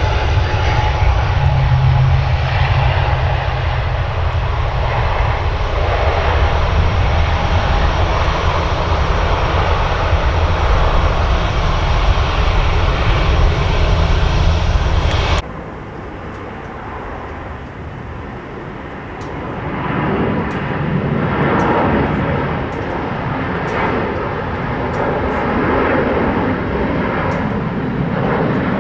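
Airliner engine noise, a loud steady rumble that cuts off abruptly about halfway through. A quieter aircraft engine sound follows and swells again toward the end.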